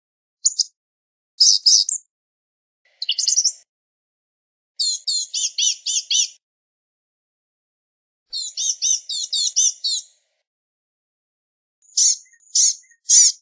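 Blue-gray gnatcatcher singing: thin, high-pitched notes, first in short bursts, then two longer rapid twittering phrases, then a run of separate, evenly spaced notes about twice a second near the end.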